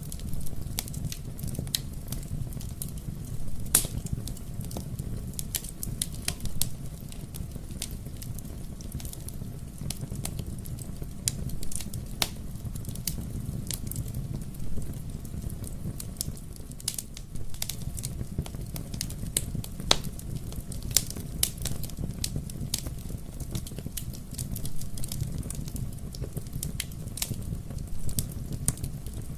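Wood fire in a fireplace crackling: a steady low rumble of the flames with frequent irregular sharp pops and snaps, a few louder ones standing out.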